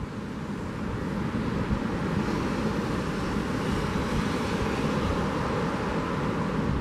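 Steady rushing of ocean surf and wind, mixed with a vehicle passing on the seafront road, which makes the noise swell a little about a second in and stay up.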